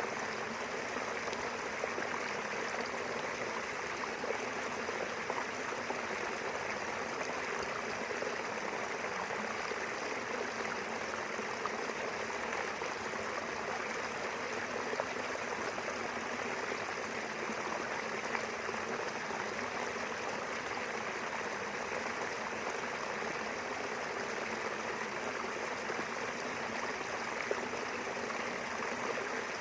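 A river flowing steadily: a continuous, even rush of running water.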